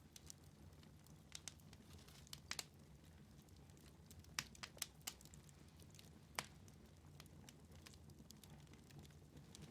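Quiet wood fire in a fireplace crackling: scattered sharp pops, about a dozen, over a faint low steady rumble.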